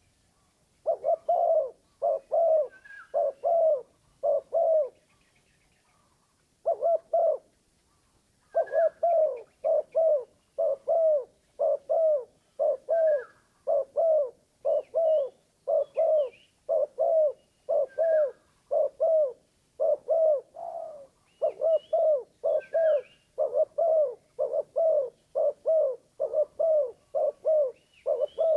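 Spotted dove (terkukur) used as a decoy bird, cooing over and over: a short run of five coos, a pause, then a long unbroken series of about two coos a second. This is its luring call, which sounds harsh rather than sweet. Faint chirps from other small birds are heard above it.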